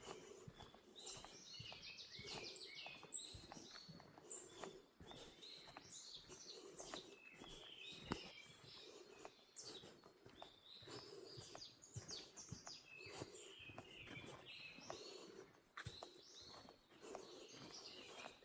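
Faint chorus of small forest birds chirping and trilling throughout, with soft, regular footsteps on a woodland trail underneath.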